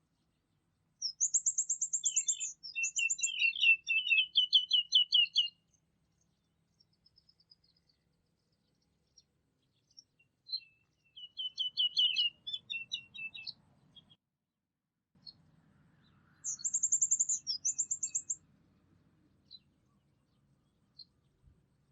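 A songbird singing in three bursts of quick, high repeated notes, with a few single chirps between the bursts.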